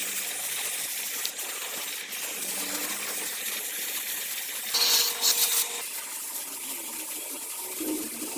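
Metal ringing for about a second, as from a metal part struck or set down, about five seconds in, over a steady hiss.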